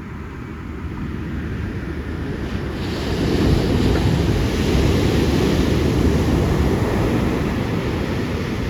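Big ocean waves breaking and washing up the beach during a large set, a rushing surf that swells about three seconds in and eases slightly near the end, with wind buffeting the microphone.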